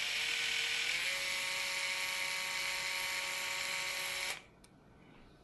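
Small cordless electric screwdriver running with a steady high whine, its pitch stepping up slightly about a second in, then stopping abruptly after about four seconds, spinning out a bent bolt.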